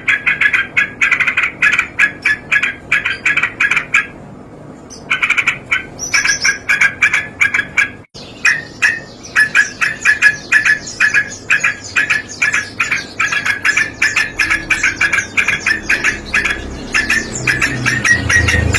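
Yellow-vented bulbul (trucukan) giving rapid strings of short, repeated 'cok cok' notes, several a second, with a pause about four seconds in. A low rumble comes up near the end.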